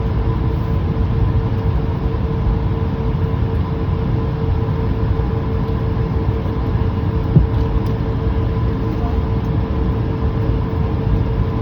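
Steady cabin noise inside a jet airliner on the ground after landing: a low rumble with a steady hum in it. A single brief knock sounds about seven seconds in.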